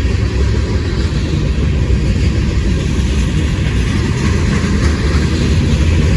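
A train passing close by, a loud steady rumble of wheels on rail.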